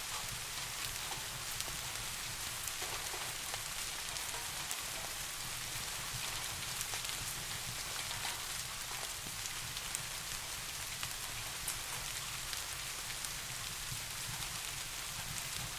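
Steady rain, an even hiss with many small sharp drop ticks scattered through it, over a steady low rumble.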